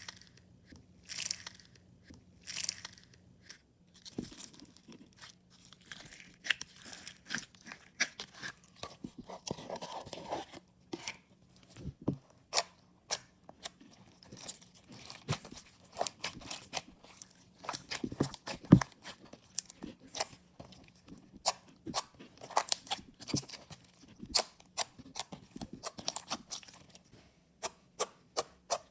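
Water jelly slime being squeezed and poked by hand, giving a dense, irregular run of sharp sticky clicks and small pops, with a few brief swishes in the first few seconds.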